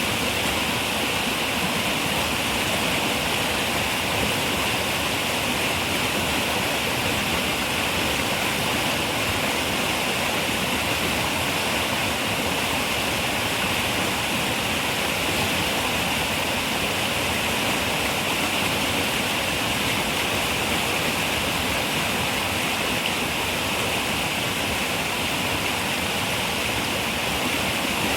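River water running over rocks, a steady, unbroken rush.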